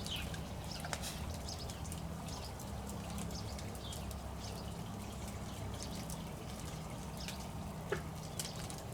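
Campfire crackling, with scattered sharp pops, the loudest about eight seconds in, over a steady low hum.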